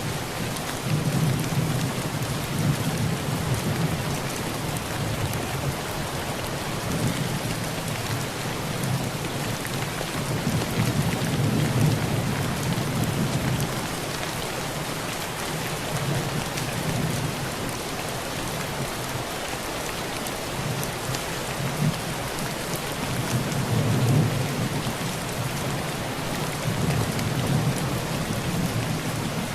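Heavy rain pattering steadily on a tin roof, with low thunder rumbling and rolling in several swells, strongest about a second in, around ten to thirteen seconds, and near twenty-four seconds.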